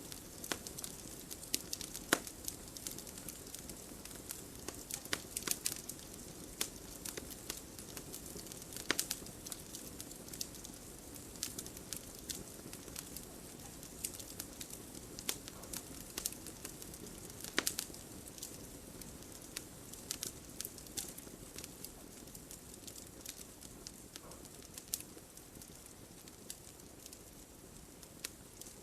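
Campfire burning: wood crackling with irregular sharp pops over a soft steady hiss.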